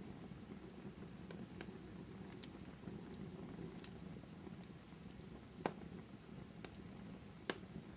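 Wood fire in a fireplace crackling faintly over a low steady hiss of burning, with scattered small snaps and two sharper pops in the second half.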